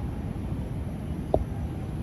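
Steady low rumble of city traffic heard from high above, with one short high blip about a second and a half in.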